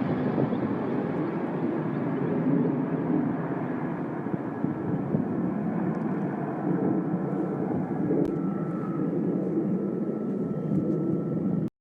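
Helicopter running: a steady rush of rotor and turbine noise that cuts off abruptly near the end.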